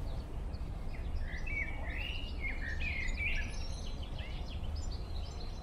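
Songbirds singing and chirping, with a louder song phrase in the middle, over a steady low rumble.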